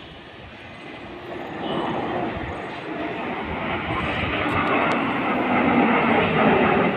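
Display aircraft engine noise, a broad rushing roar that grows steadily louder as the aircraft approaches overhead.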